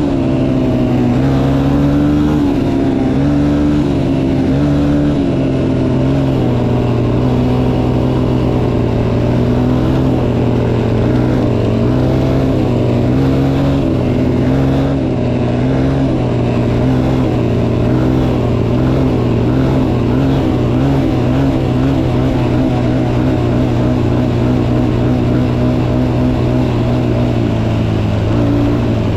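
Motocross bike engine running hard as it is ridden, its pitch rising and falling with the throttle.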